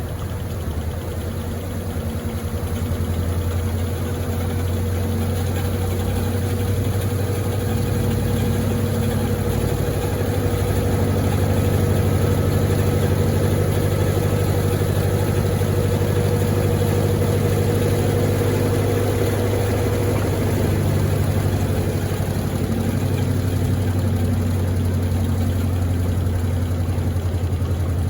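Electrolux LTD15 top-load washing machine in its spin cycle: the motor and drum run with a steady low hum that builds over the first few seconds and then holds.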